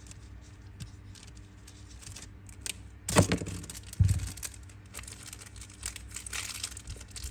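Small metal clicks and rattles of a Zippo lighter being handled, with a louder sharp clack about three seconds in and a duller knock a second later.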